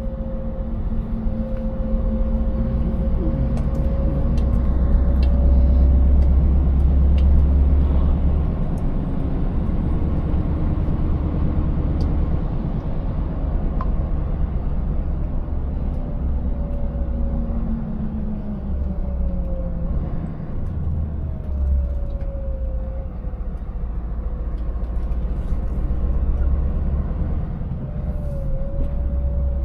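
Scania 590S V8 truck engine running under way, a deep rumble whose pitch slowly falls and rises as speed changes. Scattered sharp clicks and knocks ride over it.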